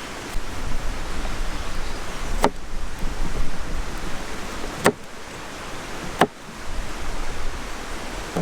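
Steady wind rumbling and rushing on the microphone, broken by three sharp knocks spaced a second or two apart.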